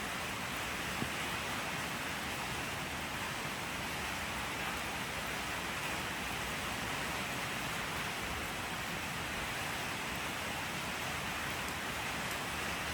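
Steady rain falling, an even unbroken hiss, with one sharper tap about a second in.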